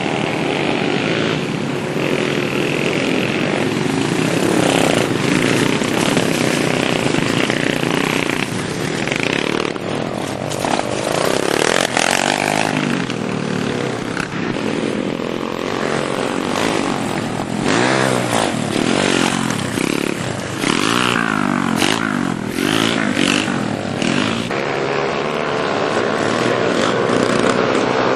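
Small four-stroke pit-bike engines revving up and down, their pitch repeatedly rising and falling as the minibikes ride around.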